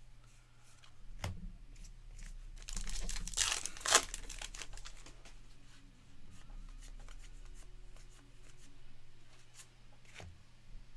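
A trading card pack wrapper being torn open and crinkled, loudest about three to four seconds in, with a few sharp clicks.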